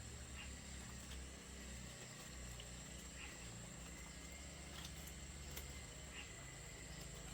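Faint outdoor ambience: a steady high-pitched insect drone with soft chirps every second or so over a low rumble.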